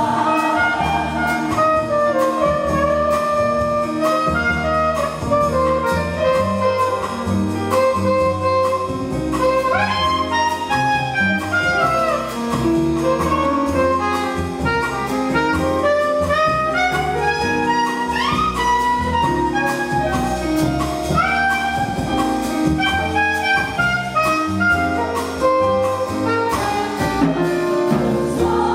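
Live jazz saxophone solo over piano, bass and drums: an instrumental break between choir passages, the saxophone line scooping up into notes now and then.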